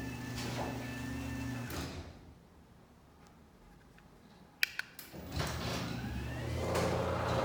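Chamberlain B970C belt-drive DC garage door opener running with the door moving, stopping about two seconds in. After a short quiet spell come a few sharp clicks, and then the motor starts up again with a rising whine as the door travels.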